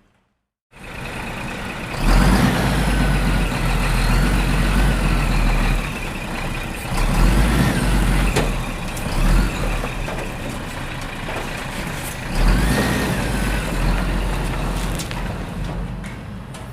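Truck engine sound with a deep rumble, its pitch rising and falling a few times. It starts abruptly about a second in.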